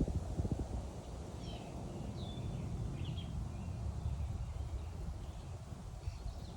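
Songbirds giving a few short, quick chirps from about a second and a half to three seconds in, over a steady low rumble of outdoor noise.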